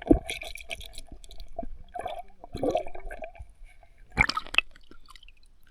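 Lake water sloshing, dripping and gurgling around a camera in a waterproof case as it is dipped in and out of the water, with one louder splash about four seconds in.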